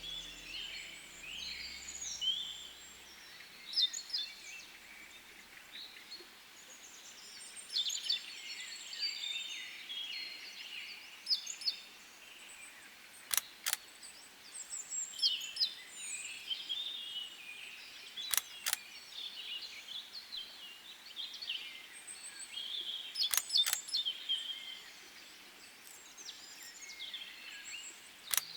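Small woodland birds chirping and calling, many short high calls overlapping. A sharp double click sounds roughly every five seconds, four times.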